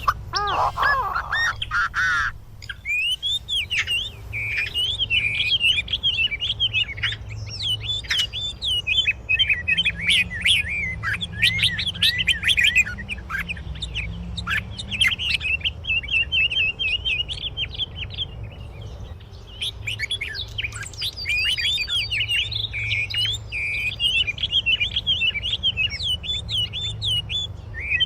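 Songbirds chirping and twittering in a busy run of quick high notes and trills, with a short lull a little after halfway. A steady low rumble lies underneath.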